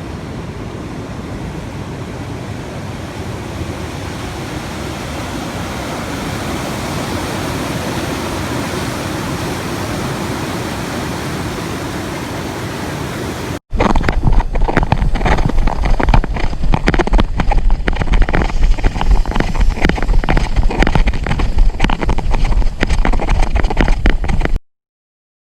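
Steady rush of heavy typhoon surf and wind, slowly swelling. About halfway through, after a cut, comes much louder choppy buffeting from wind and water on the GoPro's microphone, which cuts off suddenly near the end.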